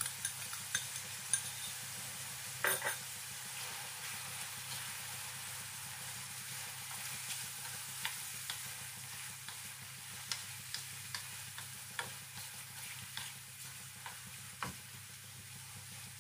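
Squid rings in sauce sizzling in a nonstick wok while a spatula stirs them. The spatula scrapes and taps the pan now and then.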